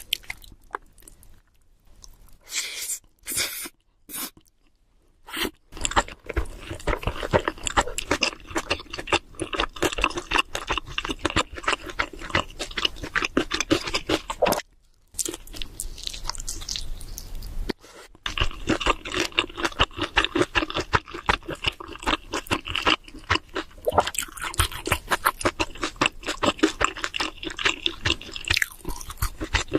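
Close-miked chewing of cheese seafood pizza: dense, rapid wet mouth clicks and crunching of the crust, sparser in the first few seconds and pausing briefly about halfway.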